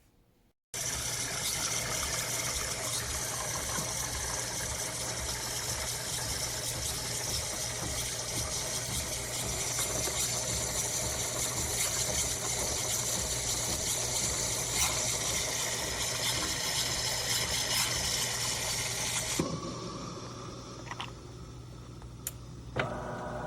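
De'Longhi Dinamica Plus espresso machine running, its pump humming steadily with liquid flowing. It starts abruptly about a second in, drops to a quieter hum after about nineteen seconds, and a couple of clicks follow near the end.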